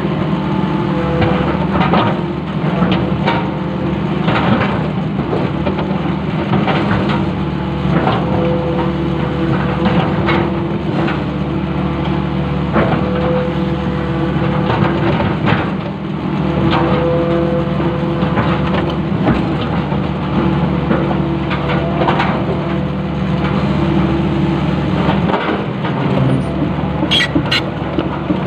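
Long-reach excavator's diesel engine running steadily under load, with repeated knocks and clunks from the working machine.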